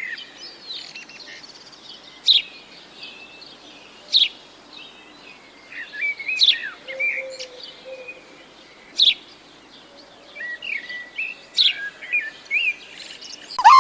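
Several birds calling: soft twittering with a sharp, high chirp every couple of seconds.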